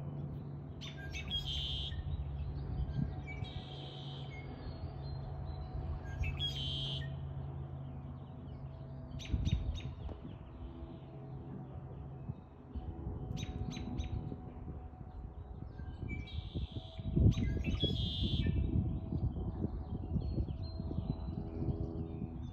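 Songbirds chirping in short phrases repeated every few seconds, over a low background rumble that gets louder in the last few seconds.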